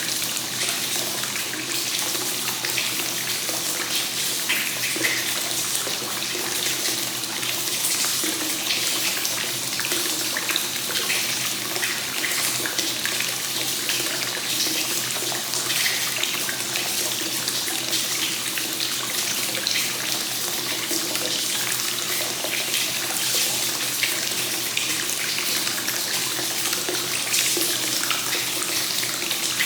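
Hot spring water flowing continuously from the source into a bath, a steady splashing pour into the water surface.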